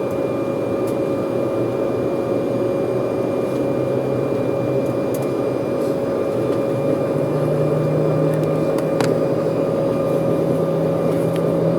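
Steady cabin drone inside an Embraer 190 airliner before takeoff, its engines and air system running, with a constant mid-pitched hum. A lower hum rises a little in pitch and grows stronger about seven seconds in.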